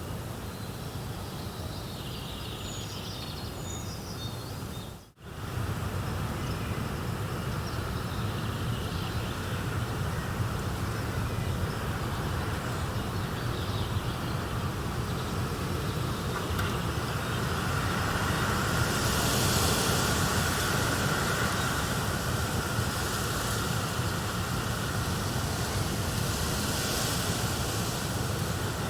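Relaxation soundscape of a fireplace and nature: a steady, rumbling noise bed with a few high bird chirps in the first seconds. The sound drops out suddenly for a moment about five seconds in, then resumes and grows a little brighter and hissier later on.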